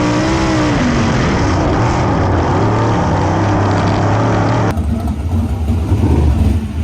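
410 sprint car's V8 engine running hard, its pitch falling as it comes off the throttle, over heavy rushing noise. About two-thirds of the way through the sound cuts suddenly to a duller, lower engine rumble.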